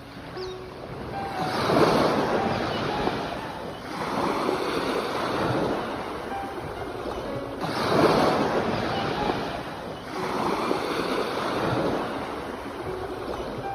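Ocean surf: waves breaking and washing up a shore in four slow surges that swell and fade, with a steady hiss between them.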